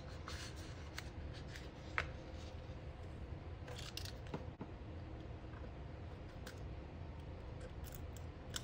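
Small scissors snipping a paper sticker, a few sharp snips in the first four seconds, over a low steady hum.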